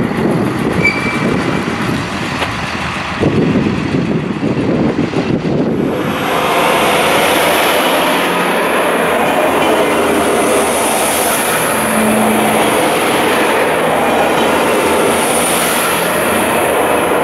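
Regional diesel multiple units at station platforms: first a train moving with wind gusting on the microphone, then from about six seconds in the steady rolling run of a red DB Regio Alstom Coradia LINT diesel railcar passing close along the platform, with a high hiss over the rumble.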